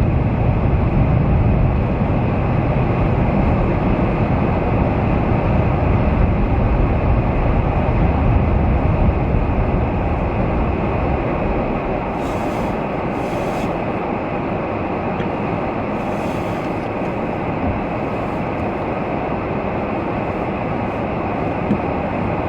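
Steady road and wind noise inside a moving vehicle's cabin as it drives on a snowy road in strong blizzard winds. The low rumble eases about halfway through.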